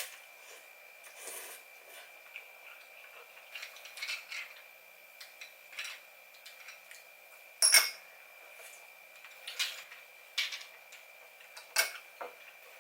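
Kitchen clatter: dishes and utensils knocking and clinking now and then, with two sharper clinks, one about eight seconds in and one near the end.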